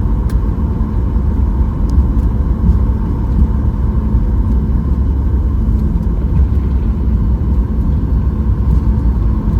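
Steady cabin rumble inside a Boeing 737 MAX 8 airliner: engine and airflow noise with a faint steady hum.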